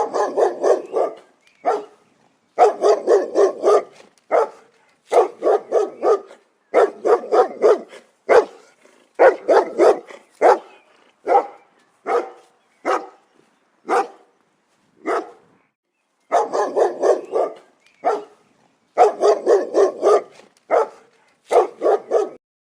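A dog barking in quick runs of three to five barks with short pauses between, with single barks spaced out through the middle.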